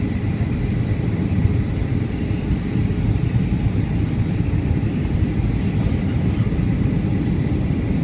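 Steady low rumble of a Boeing 757-200 in flight, heard inside the cabin: engine and airflow noise with a faint, steady high tone above it.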